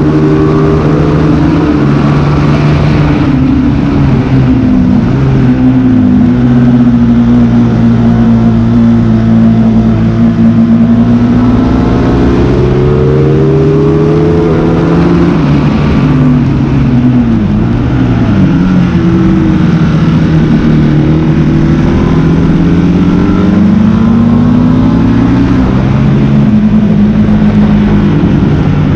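Motorcycle engine at track pace. The revs climb and fall continuously, with quick sharp drops at gear changes and braking several times.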